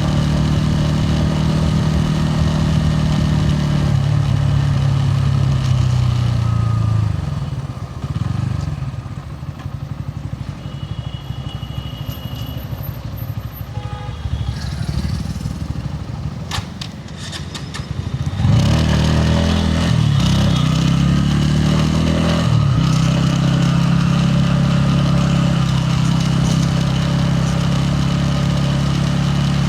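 Bajaj Pulsar N160's single-cylinder engine and exhaust running steadily under way, then easing off to a low, quieter note for about ten seconds. About two-thirds through it revs up in a few rising sweeps through the gears and settles back into steady running.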